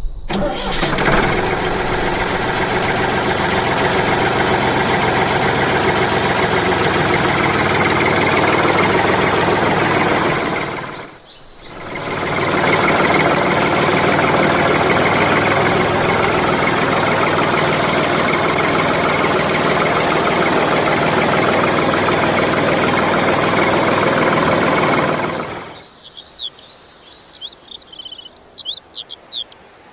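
A motor running steadily and loudly, dropping out briefly about eleven seconds in, then resuming until it stops abruptly near the end. After that, birds chirp.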